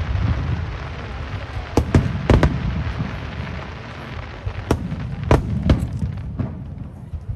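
Aerial fireworks shells bursting in an irregular series of sharp bangs, several in quick succession, over a continuous low rumble.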